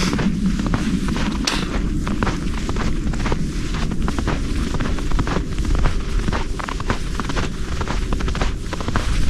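Wind buffeting the microphone with a steady low rumble, over a run of footsteps crunching in snow.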